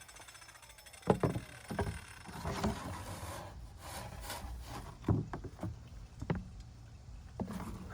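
Pieces of 5/8-inch birch plywood being handled: about half a dozen separate wooden knocks, with a stretch of scraping and sliding in the middle.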